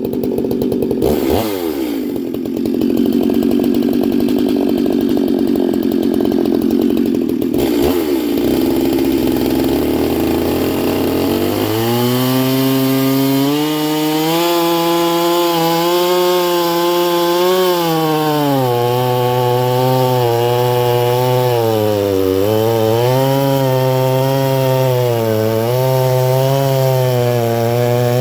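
Stihl 046/MS440 two-stroke chainsaw, fitted with a ported cylinder and tuned exhaust, running loud at high revs. For the first twelve seconds the note is rough and dense; after that it turns into a clear engine pitch that rises and falls repeatedly with the throttle or load.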